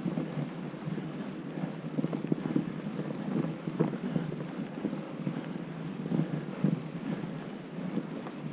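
Fat bike's wide tyres rolling over fresh snow, an uneven crunching and rumbling with many small irregular crackles, mixed with wind buffeting the microphone.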